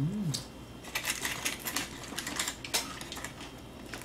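Crispy fried chicken batter crunching as a drumstick is bitten and chewed close to the microphone: a scattered run of sharp crackles from about a second in.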